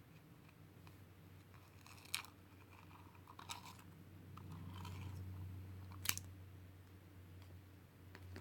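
A person eating, with four sharp crunching bites or clicks spaced a second or more apart, the last one loudest, over a low steady hum.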